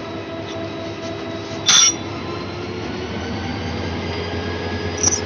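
Train running on the rails: a steady rumble with held squealing tones from the wheels, and a short, loud screech about two seconds in, with another brief one near the end.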